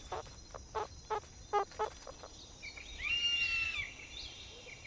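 Faint animal calls: a few short chirps, then one steady whistled call lasting nearly a second, about three seconds in.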